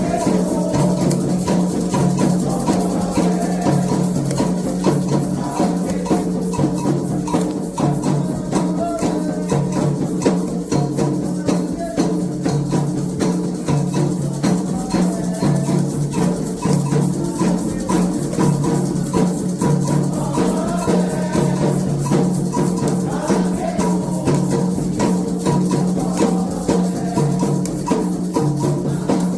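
Candomblé ceremonial percussion: drums and rattles playing a fast, steady rhythm without a break.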